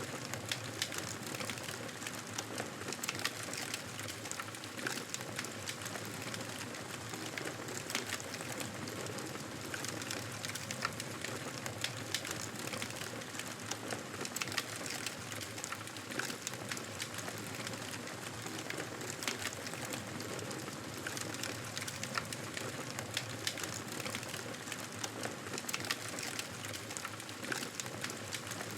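Wood fire in a fireplace crackling: a steady hiss dotted with many small sharp pops at irregular moments.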